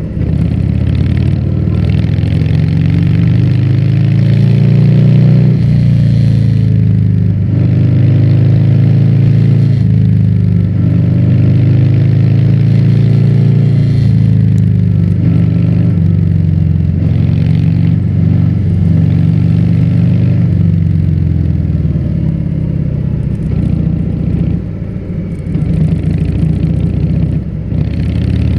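Harley-Davidson Fat Bob's V-twin running loud through a Vance & Hines aftermarket exhaust while riding. The engine note rises and falls with throttle and gear changes, and the throttle eases off a few times near the end.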